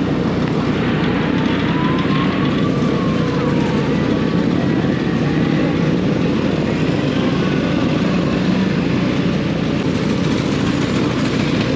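Steady motorcycle engine and road noise, with a siren's slow rising and falling wail faint behind it.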